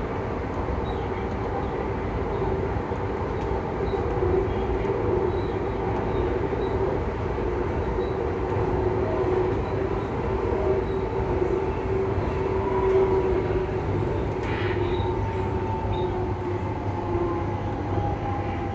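Delhi Metro train running along the track: a steady rumble of wheels on rail with the traction motors' whine. Near the end the whine sinks a little in pitch as the train begins to slow.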